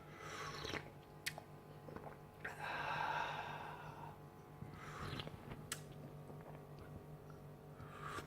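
Faint breathing close to the microphone, with a longer breath about three seconds in. A few soft clicks of handling sit under a steady low hum.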